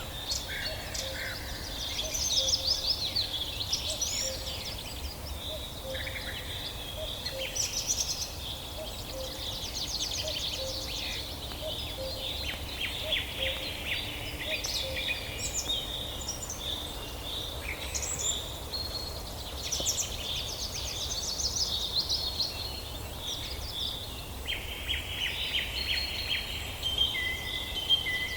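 A chorus of several songbirds singing at once: overlapping chirps, rapid trills and whistled notes, over a steady low background rumble.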